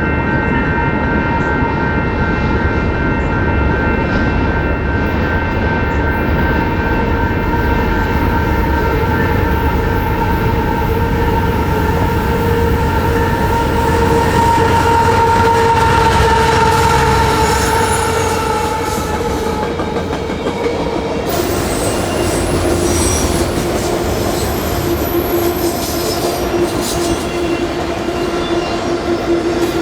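A train passing close by, with a steady rumble and sustained squealing tones from the wheels on the rails that drift slowly lower. About two-thirds of the way through the sound changes abruptly and the squeal settles to a lower single tone.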